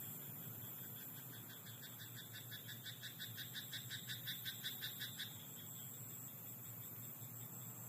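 A frog in a rice paddy croaking in a quick run of about six croaks a second, growing louder for some four seconds and then stopping, over a faint steady night-time hiss.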